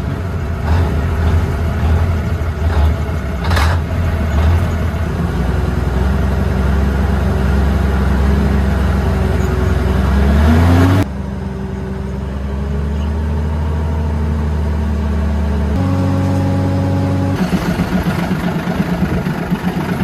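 The 1969 M818 military 6x6 truck's engine running just after being started on starting fluid with its air filter off; it revs up, rising in pitch about ten seconds in, then runs steadily at a lower speed after a sudden change.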